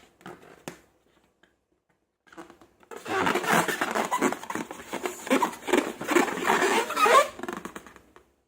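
Slime being squished and worked by hand: a few soft sticky clicks, then a dense run of wet crackling and popping for about five seconds that stops just before the end.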